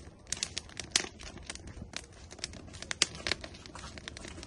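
Wood fire burning in an outdoor grill, crackling with irregular sharp pops several times a second.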